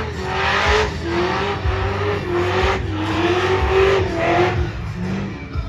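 Drift car's engine held at high revs, its pitch rising and falling as the throttle is worked, with repeated surges of tyre noise about a second apart as the car slides.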